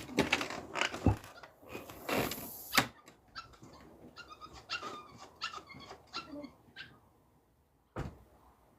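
Puppy whimpering and yelping in a string of short high cries, with knocks and handling noises.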